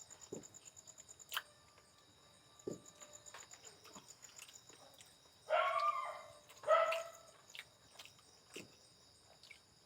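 A small dog giving two short, high yaps, about five and a half and nearly seven seconds in, with a few faint clicks before them.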